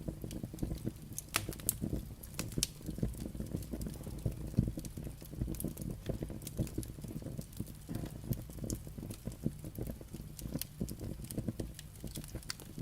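Firewood burning, with frequent irregular sharp crackles and pops over a low steady rush of the flames.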